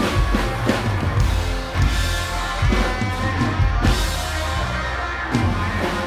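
Live rock band playing, with drum kit, electric guitar and bass; the kick and snare hits are loud and regular.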